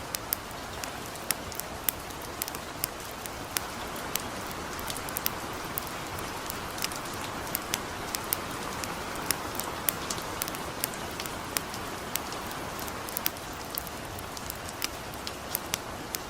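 Light rain falling in a steady hiss, with a campfire crackling: frequent sharp, irregular pops over the rain.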